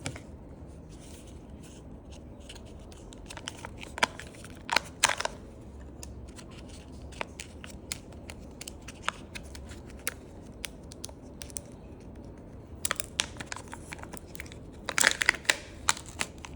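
Plastic wrapping of a Kinder Joy toy crinkling and crackling as it is handled and opened, with scattered sharp clicks and two busier spells, one about four seconds in and a longer one near the end.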